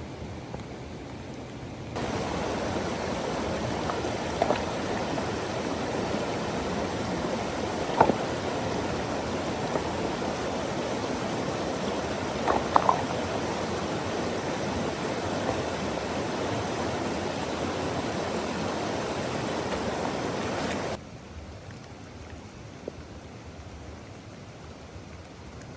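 Steady rushing water that starts suddenly about two seconds in and stops suddenly near the end, with a few short sharp clicks over it, one of them doubled. Before and after it, quieter ambience.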